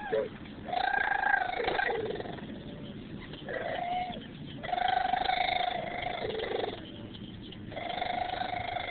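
A baby making long drawn-out vocal noises: about four held, high, even-pitched sounds, each lasting a second or more and dropping in pitch at its end.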